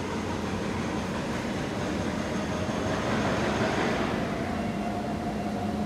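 Kawasaki C751B metro train heard from on board: a steady rumble and hum, with a faint steady tone coming in about four seconds in.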